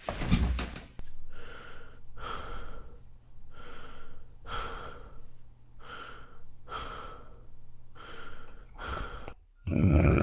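Rhythmic heavy breathing or panting, a breath about every 0.7 s, with a louder, longer breath near the end.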